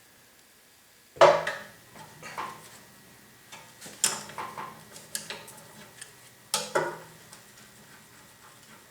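Metal parts and tools clanking and clinking as they are handled during the teardown of a vintage Yates American J180 planer: about six sharp strikes with brief ringing, the loudest about a second in.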